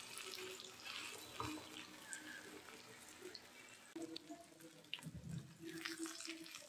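Sweet pumpkin slices shallow-frying in oil in a pan: a faint, steady sizzle dotted with small pops and crackles.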